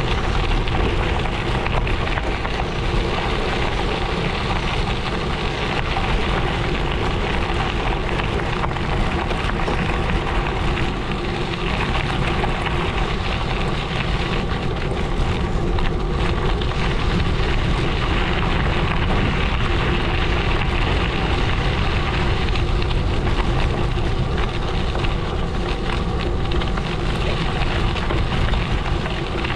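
Gravel bike tyres rolling over a gravel road: a steady crackling crunch of loose stones under the wheels.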